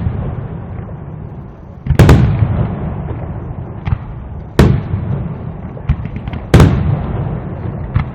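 Aerial fireworks display: three loud shell bursts roughly two seconds apart, with a few smaller pops between them over a continuous low rumble of echoing detonations.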